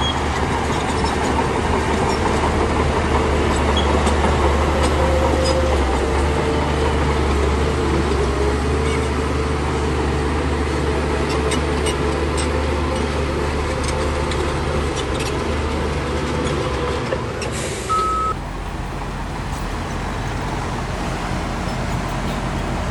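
Heavy diesel construction machinery running steadily with a low engine drone and scattered metallic clanks. About 18 seconds in there is a short high beep and a burst of hiss, and then the sound changes abruptly.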